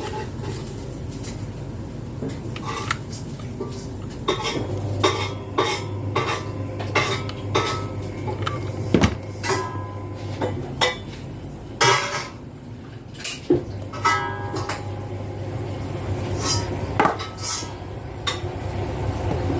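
Irregular clicks and clinks of small hard tools and parts being handled, over a low steady hum that drops out for a few seconds midway.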